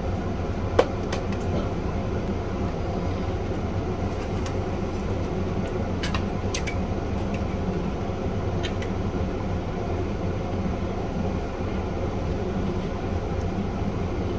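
Steady room hum with a few light clicks and taps from handling the parts of a Commodore 1571 floppy disk drive and plugging its internal cables back in.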